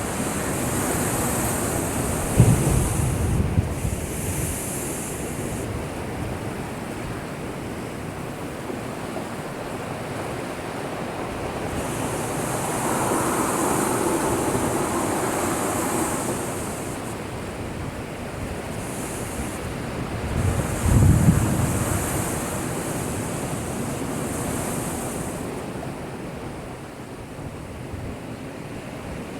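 Heavy typhoon-driven surf crashing continuously against a breakwater, the wash swelling and fading, with two deep booming impacts of waves striking the wall, one about two seconds in and a louder one about twenty seconds in.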